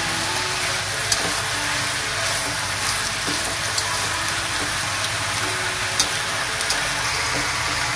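Bok choy, carrot and mushrooms sizzling in a hot oiled wok as they are stir-fried with wooden chopsticks, with a couple of sharp clicks of the chopsticks against the pan, about a second in and again about six seconds in.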